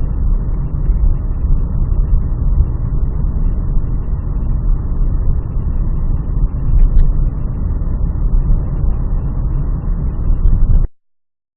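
Steady low rumble of a car driving, engine and road noise, cutting off abruptly near the end.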